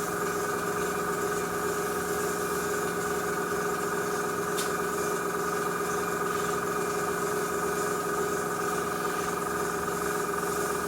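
Airbrush compressor running with a steady hum, with air hissing from the airbrush.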